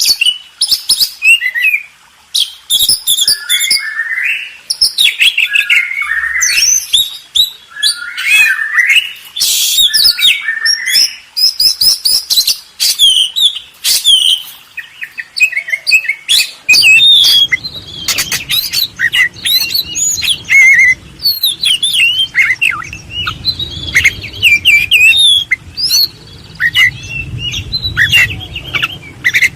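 Several birds chirping and calling in quick succession, a dense run of short chirps and trills, with a low rumble joining underneath about halfway through.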